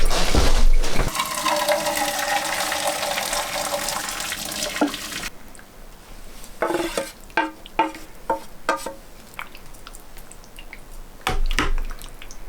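Water running hard from a tap into a vessel for about five seconds, then shut off suddenly; a few short knocks follow, and a brief louder rush comes near the end.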